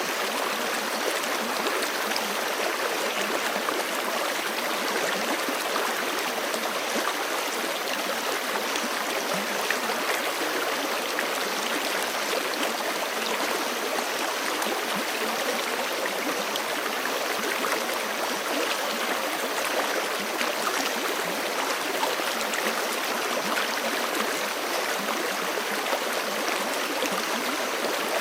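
A forest creek rushing and gurgling over stones: a steady, unbroken flow of water.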